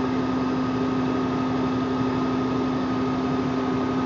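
Tractor-trailer engine droning steadily inside the cab, with a steady low hum and a fainter high whine over road noise, as the Jake brake (engine compression brake) holds the loaded truck back on a downhill grade.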